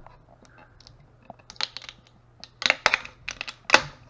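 Hard plastic clicks and knocks from 3D-printed parts being handled: a few light taps, then a quick cluster of sharper clacks in the second half.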